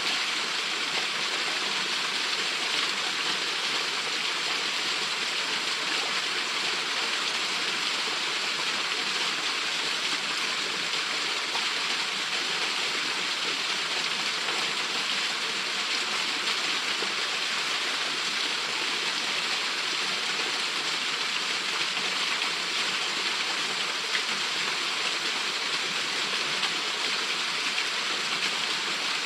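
Small waterfall pouring into its plunge pool: a steady, even rush of falling water that does not change.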